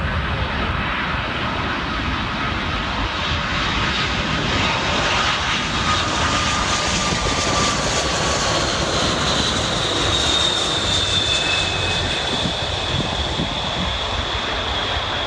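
Jet airliner passing, a steady loud engine rush with a high whine that slowly falls in pitch in the second half.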